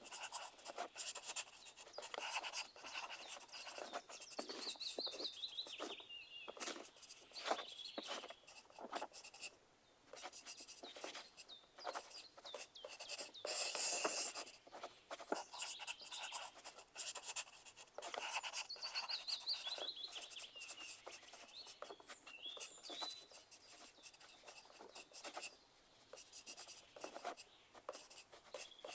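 Pencils scratching on paper in irregular strokes, as in a quiet exam room. A bird gives a short falling series of chirps twice, about five seconds in and again near twenty seconds.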